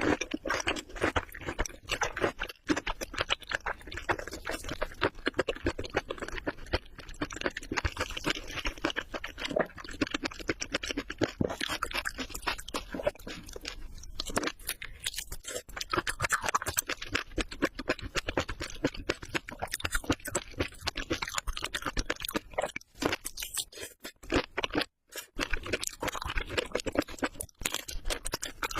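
Crispy fried prawns being chewed close to the microphone: a dense run of crunches with a couple of brief pauses.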